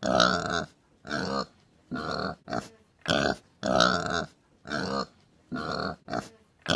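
Domestic pig grunting repeatedly: a run of about ten short grunts, roughly one every half second to a second.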